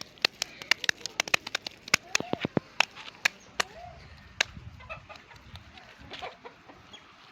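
A quick, irregular run of sharp clicks and snaps, dense for the first four seconds or so and then thinning out, with a few short pitched animal calls between them.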